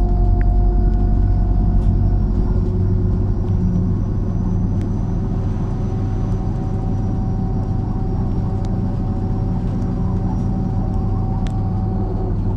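MAZ-103 city bus under way, its engine and drivetrain running with a steady low drone and even whining tones over it. It eases off a little after about four seconds.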